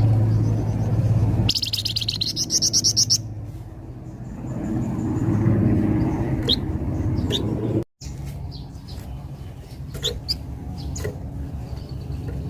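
Songbird known to Indonesian bird keepers as the flamboyan, singing: a fast, high, rapidly pulsed trill lasting about a second and a half, beginning about a second and a half in, then scattered short sharp chirps. A steady low hum lies under it throughout. The sound cuts out for an instant about eight seconds in.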